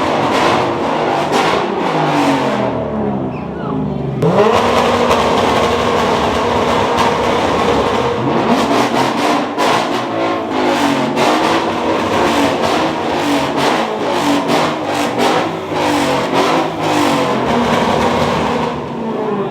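Car engine revving hard at high rpm, its pitch climbing about four seconds in and staying high, with many sharp crackles through the sound.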